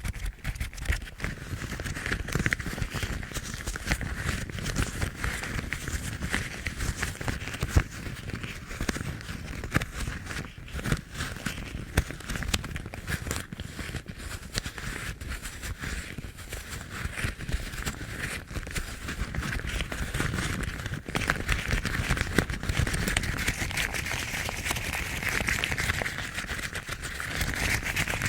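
Yellow rubber household gloves rubbed and scratched together close to the microphone: a continuous dense squeaking, rustling and crackling texture with small irregular bumps.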